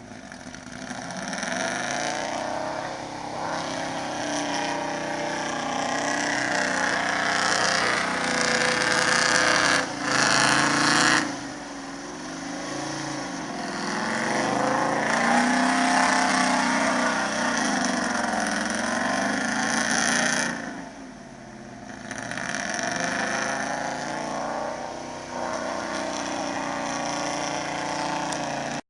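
Old 4x4 truck's engine revving up and down while it is driven off-road, the pitch rising and falling. It eases off briefly twice, about a third and two thirds of the way through.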